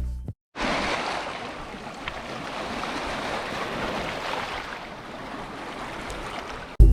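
Ocean surf washing on a beach: a steady rushing hiss, loudest as it begins and easing after the first second.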